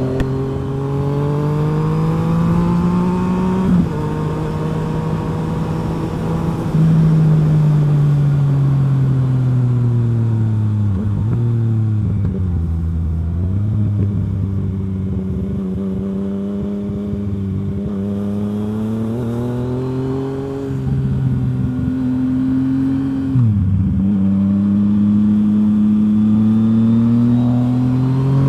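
Yamaha FZ-09's three-cylinder engine running through a full M4 aftermarket exhaust while riding, pulling through the gears. The pitch climbs and drops sharply at an upshift about four seconds in, falls away as the throttle is eased off near the middle, then climbs slowly and drops sharply again at another shift a few seconds before the end.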